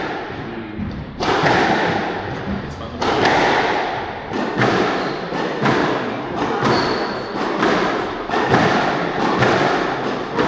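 Squash ball being struck back and forth during the warm-up knock-up: sharp racquet hits and thuds against the court walls, about one every second or so, each ringing on in the enclosed court. A brief high squeak comes about seven seconds in.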